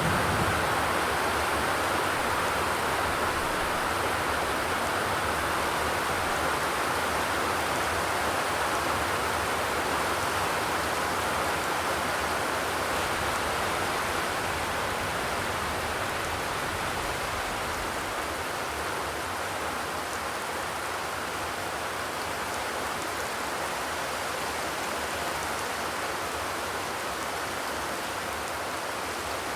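Steady rain falling on a zinc roof, an even hiss of many drops with no single hits standing out. It grows slowly and slightly quieter.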